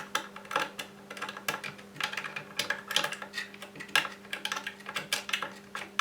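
Irregular light clicks and clatters, several a second, like small hard objects or keys being tapped and handled, over a steady low hum.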